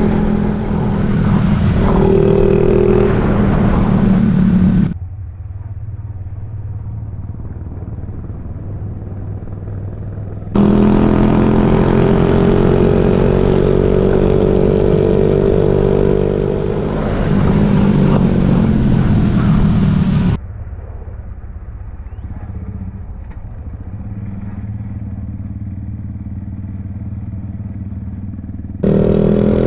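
Suzuki Raider J 115 Fi motorcycle's single-cylinder four-stroke engine running under way. The sound jumps abruptly several times between a loud, full engine note and a quieter, duller one.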